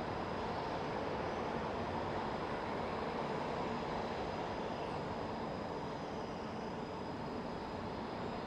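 Steady industrial machinery noise from a steel hot-dip galvanizing line: an even rumble and hiss with a faint high whine held throughout.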